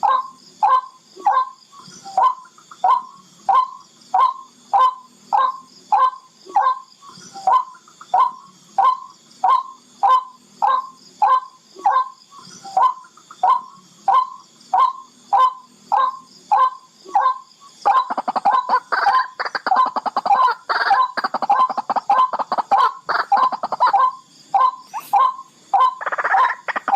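Barred rail calling: a steady series of short notes, a bit under two a second. About two-thirds of the way in, the calling turns into a faster, denser and louder chatter.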